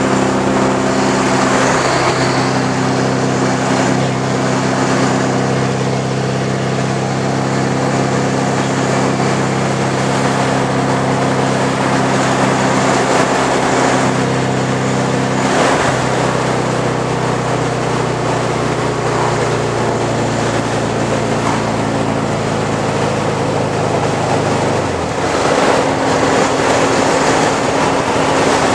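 Straight-piped exhaust of a 1983 Porsche 944's four-cylinder engine, with no catalytic converter or muffler, running with a steady drone. Its pitch steps to a new level about halfway through and shifts again near the end.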